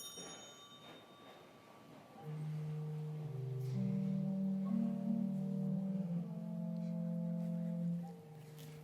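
A small bell rings once, then about two seconds in an organ starts playing slow, sustained chords.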